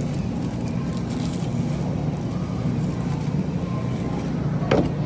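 Steady low mechanical hum, with a single sharp click near the end.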